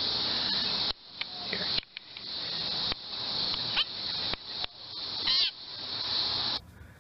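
A few short, wavering bird calls over a steady hiss. The hiss breaks off abruptly several times and cuts off suddenly near the end.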